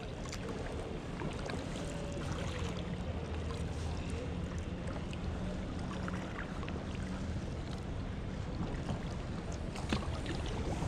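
Kayak paddling on a canal: small paddle splashes and water sounds over a steady low hum, with one sharper knock near the end.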